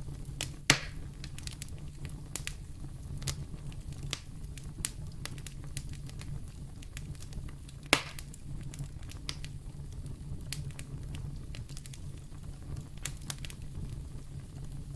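Wood fire in a fireplace crackling, with scattered small snaps and two loud sharp pops, one near the start and one about halfway through, over a steady low rumble.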